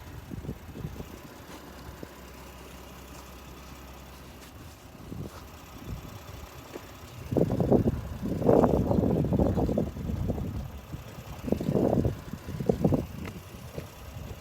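Pickup truck engine idling quietly with a low, steady hum. From about seven seconds in, loud, irregular buffeting on the microphone covers it.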